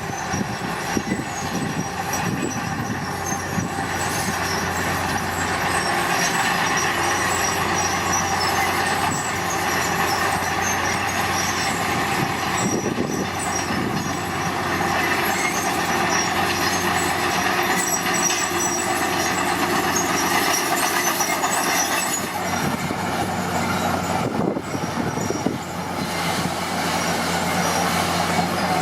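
Komatsu D41P crawler bulldozer working, its diesel engine running steadily under the metallic squeal and clatter of its steel tracks.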